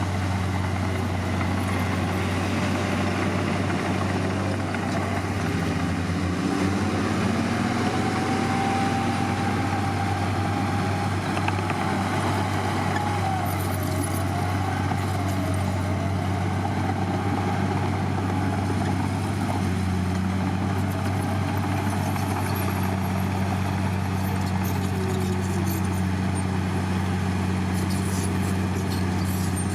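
Heavy diesel engine of earthmoving machinery running steadily at a constant speed, with a faint wavering whine over it for several seconds in the middle.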